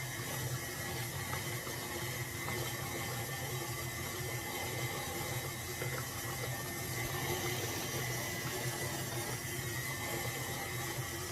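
Stand mixer running steadily, churning cultured sour cream into butter: a constant low motor hum with a watery churning noise over it.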